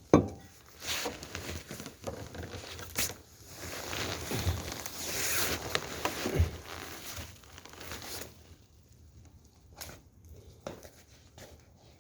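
Close-up crinkling and rustling, as of plastic or fabric being handled, opening with a sharp knock and thinning to a few small clicks near the end.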